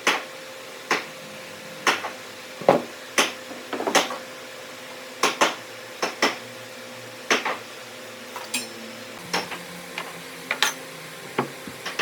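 Hand-tool knocks on wood: a series of sharp, irregular strikes, roughly one a second, some in quick pairs, with a faint steady hum underneath.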